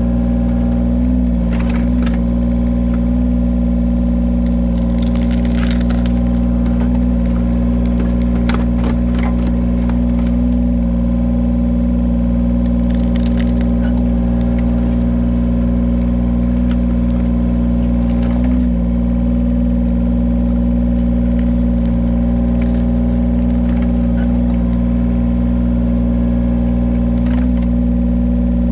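Engine of a firewood-splitting machine running steadily at a constant speed, with a few short cracks and knocks scattered throughout.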